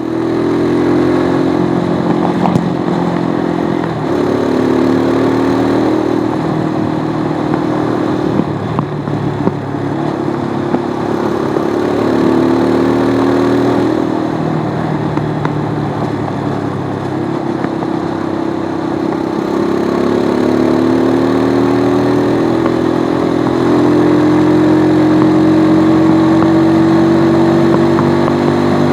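Stels Flex 250 motorcycle's single-cylinder four-stroke engine running under way. Its revs climb and drop back again and again as it pulls through the gears, with the exhaust note rising steadily over the last few seconds.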